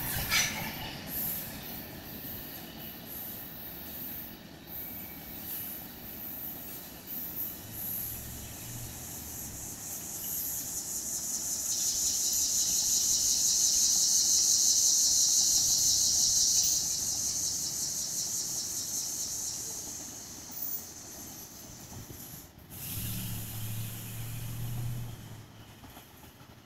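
Freight train of tank cars rolling past at close range, then its rumble fading as the train moves away. A steady high hiss swells and fades again in the middle.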